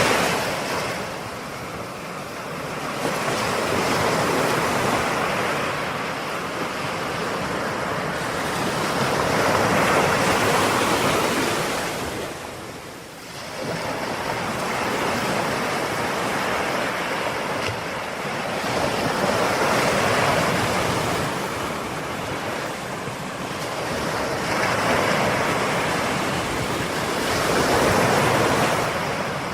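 Ocean surf, waves breaking and washing in, swelling and falling back every few seconds with a brief lull about halfway through.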